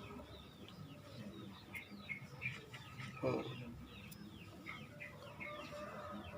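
Faint bird chirping: many short high chirps, with one louder, lower call about three seconds in.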